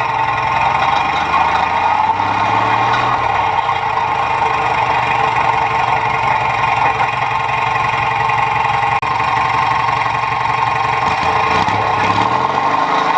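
Modified riding lawn tractor's engine running steadily as the machine is driven, heard close up from a mount on its front bumper; its pitch shifts a little as the speed changes, and the sound drops out for an instant about nine seconds in.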